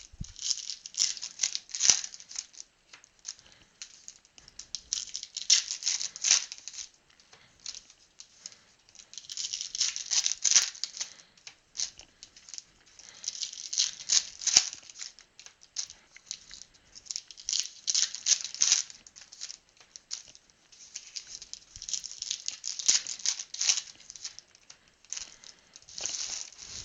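Football trading-card pack wrappers being torn open and crinkled, with cards handled, in repeated short bursts of crisp crackling about every four seconds.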